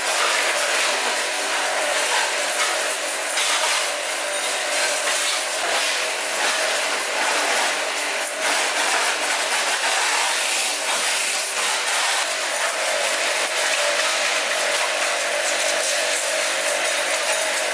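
A machine running steadily: a constant hissing rush with a steady whine underneath.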